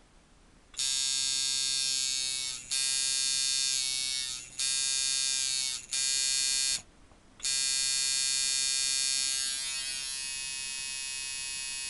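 Rebuilt long-stroke tattoo liner machine buzzing at 5 volts, running brutally hard. It is switched on and off four times in short runs of one to two seconds, then runs continuously, dropping somewhat in level near the end.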